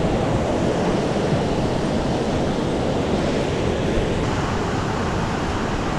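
Steady rushing of water in a mountain stream, an even noise with no breaks.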